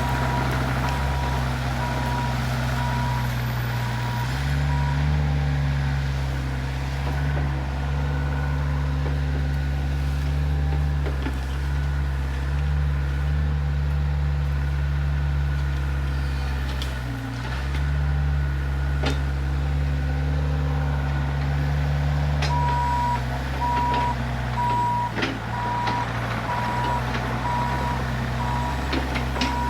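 Heavy diesel equipment running, its engine note stepping up and down with load, with a backup alarm beeping in the first few seconds and again from about 22 seconds on. Occasional sharp knocks.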